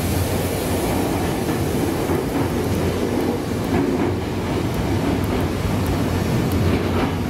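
Nankai 1000 series electric train running on departure from the station, a steady noise of wheels on rail.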